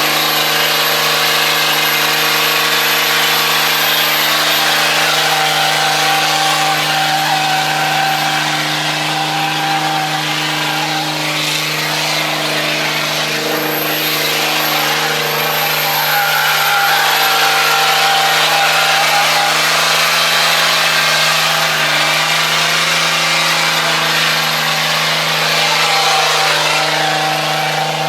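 Car engine running steadily at high revs, a continuous loud drone with a whining edge that barely changes in pitch.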